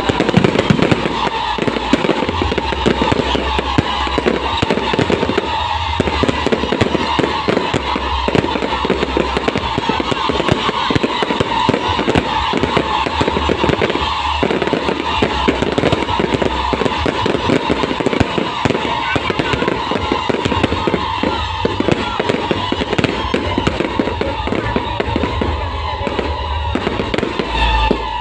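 Fireworks crackling and popping in a dense, continuous barrage, with music playing underneath.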